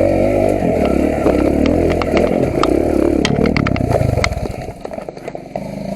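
Off-road motorcycle engine revving up and down under load on a rocky trail, with sharp clicks and knocks of rock under the tyres. About four seconds in the throttle comes off and the engine drops to a lower, quieter note, then picks up again near the end.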